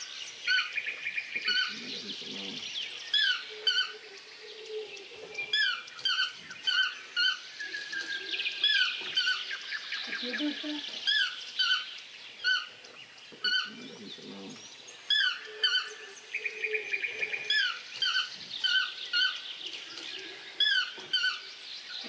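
Birds calling: runs of short, high, hooked chirping notes repeating quickly throughout, with lower calls coming in every few seconds.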